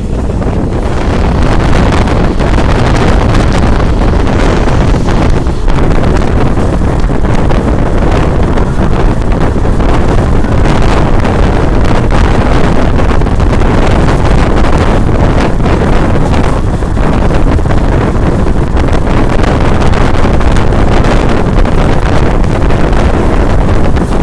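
A moving passenger train running steadily, its rumble mixed with heavy wind buffeting on the microphone.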